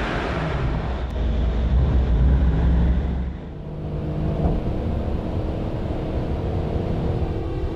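Mercedes-Benz E63 AMG S-Model's twin-turbo 5.5-litre V8 running under load on a hot lap. The sound drops away briefly a little over three seconds in, then the engine pulls on steadily.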